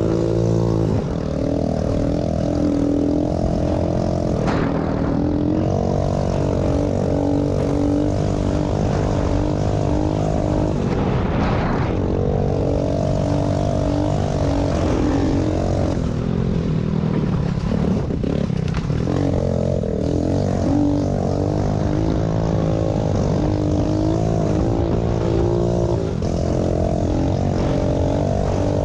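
Small pit bike engine running hard, its pitch wavering as the revs rise and fall, easing off briefly a couple of times before picking up again.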